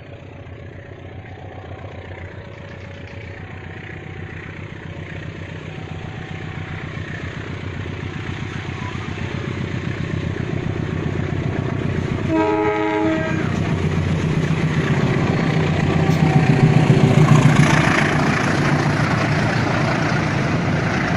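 Diesel locomotive hauling a passenger train, its engine drone growing steadily louder as it approaches. It gives one short horn blast about halfway through, and the wheels and carriages clatter loudest as it passes near the end.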